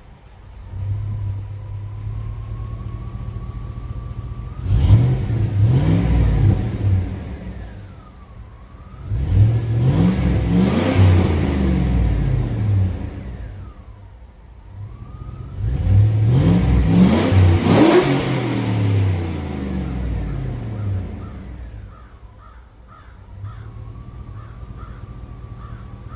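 Chevrolet 4.8 L V8 exhaust idling, then revved three times, each rev rising for a couple of seconds and falling back to idle.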